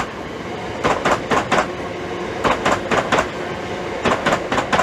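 Electric multiple unit train running past on the main line. Its wheels clack over the rail joints in groups of about four, one group for each pair of bogies, and the groups repeat about every second and a half over a steady rumble.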